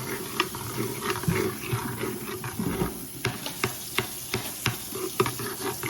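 A spoon stirring a thick wing sauce in a bowl: irregular clinks and scrapes against the bowl, a few a second.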